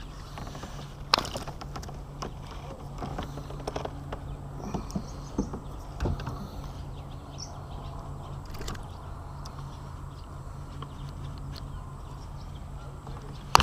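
Scattered knocks and clicks of fishing gear being handled in a kayak, over a steady low hum. One sharp click comes about a second in, and the loudest comes right at the end.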